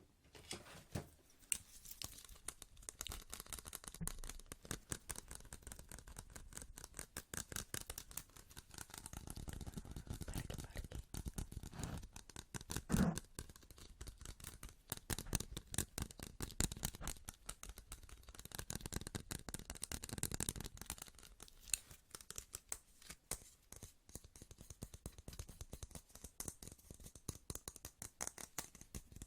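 Fast, close-miked ASMR tapping and hand sounds: a dense, continuous run of quick crisp clicks and taps, several a second, with heavier, fuller stretches in the middle and one sharper louder click about halfway through.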